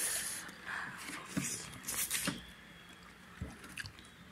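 Eating sounds of tripe and pap: chewing and wet lip smacks, a few short ones spread through an otherwise quiet stretch.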